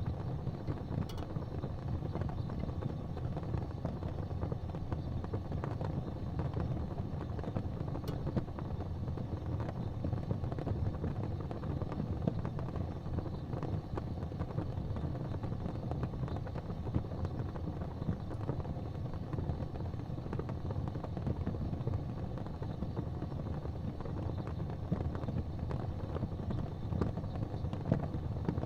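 Fireplace fire burning with a steady low rumble and occasional faint crackles.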